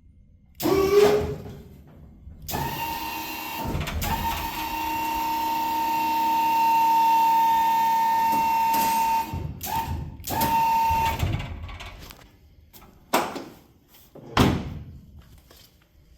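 A handheld power tool running with a steady high whine for about seven seconds, then in two shorter bursts, with a couple of separate knocks near the end.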